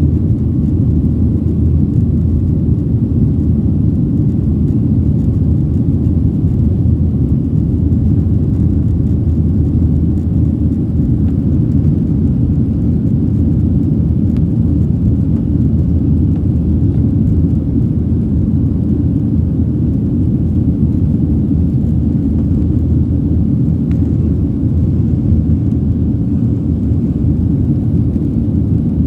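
Steady low rumble of a jet airliner's engines and airflow, heard inside the cabin, with no change in pitch or level.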